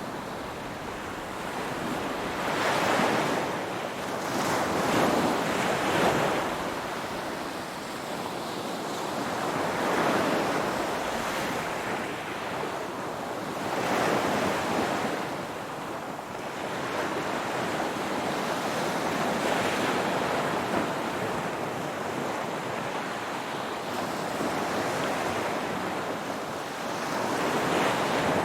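Ocean waves breaking and washing up a shore, a steady surf rush that swells and ebbs every few seconds as each wave comes in.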